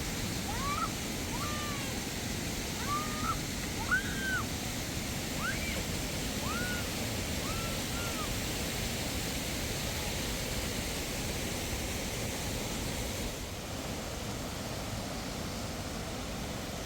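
Steady rush of flowing water, with a small bird giving short rising-and-falling chirps through the first half.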